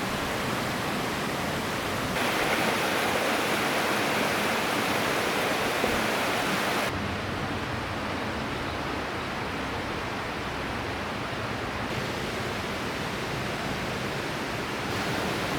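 River water rushing steadily over rocks. It jumps abruptly louder and brighter about two seconds in, then turns duller and quieter about seven seconds in.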